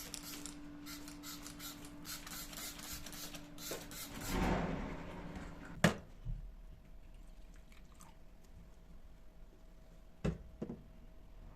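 Household handling sounds: a run of light clicks over a steady low hum for the first few seconds, a brief rushing swell about four seconds in, then a few isolated sharp knocks.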